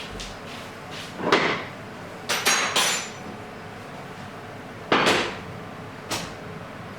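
Several separate knocks and clinks. A group of three quick ones about two and a half seconds in has a short, high, ringing tone.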